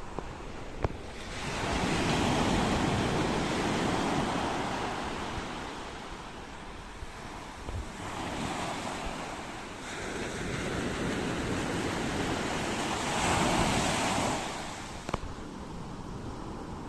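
Ocean waves washing in and drawing back in three slow surges: the first builds about a second and a half in, a smaller one follows, and the third is the loudest before it falls away.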